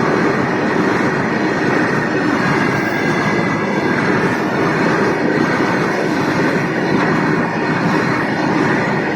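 Goods train running past at steady speed, hauled by WDG4G diesel locomotives, a continuous even rail noise.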